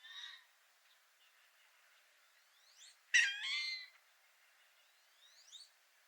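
Wild birds calling: a thin rising whistle repeats a few times, and one loud, harsh call lasting under a second comes about three seconds in.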